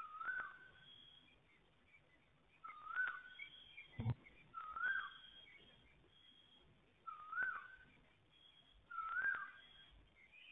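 A bird calling over and over: a short whistled note that rises then falls, repeated about every two seconds, with fainter higher chirps between. A single sharp knock about four seconds in.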